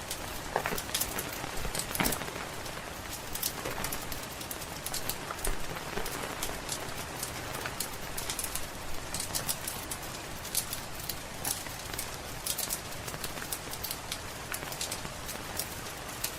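Rain falling steadily mixed with a crackling wood fire: frequent irregular sharp pops and snaps over an even hiss.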